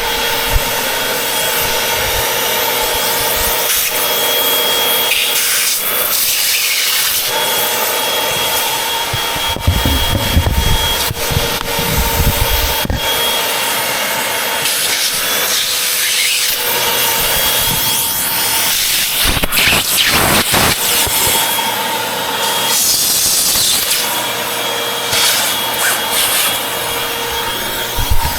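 Upright vacuum cleaner, model UH70605, running with a steady motor whine, its nozzle rubbing and scraping over surfaces in irregular surges as it is pushed and pulled.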